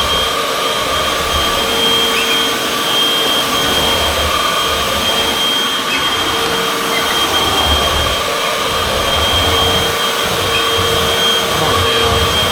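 Upright vacuum cleaner, model UH70605, running steadily with a constant motor whine. A low rumble swells and fades every second or two as it is pushed back and forth over the floor.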